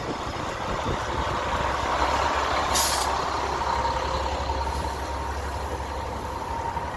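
Street traffic with a heavy vehicle, such as a truck or bus, running close by. It gives a short air-brake hiss about three seconds in, and a steady whine runs on after it.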